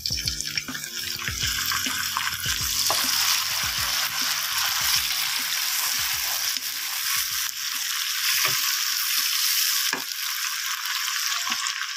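Chopped tomatoes and green chillies sizzling in hot oil with fried onions in a non-stick pot, stirred with a wooden spoon that knocks against the pan now and then.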